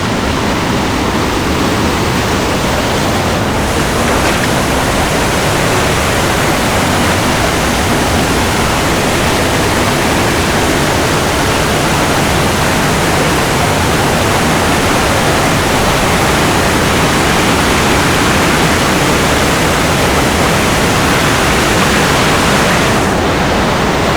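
Waterfall's falling water rushing steadily and loudly close to the microphone.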